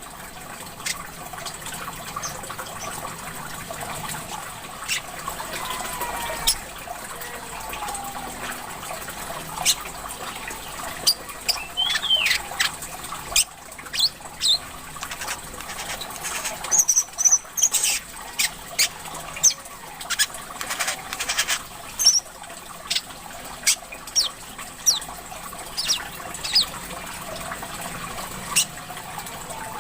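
Small songbird (the wiceh/korlap) giving a busy run of short chirps, quick sweeping whistles and sharp clicks, over a steady sound of trickling water.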